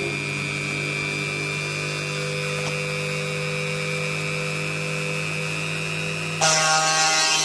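Small electric drill running at steady speed with a constant hum and whine while drilling fused glass under water. About six and a half seconds in it gets suddenly louder and harsher, with a hiss over the whine.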